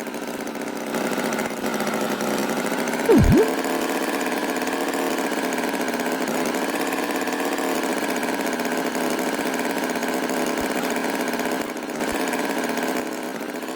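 Animated tractor's engine sound effect running steadily, with a quick low swoop that dips and rises a little over three seconds in.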